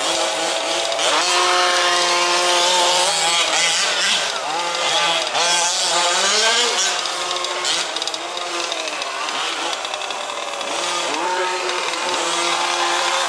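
Several 1/5-scale RC off-road race trucks' small two-stroke petrol engines running at once, their pitches rising and falling as they throttle up and back off around the track. The engine notes overlap and cross each other.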